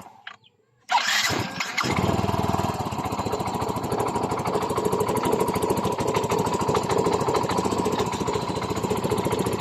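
Yamaha Mio i 125 scooter's single-cylinder engine starting about a second in, catching quickly and then idling steadily with a rapid even pulse. The engine is freshly rebuilt with a new cylinder block and piston, and the piston slap, a knocking and rattling, is gone.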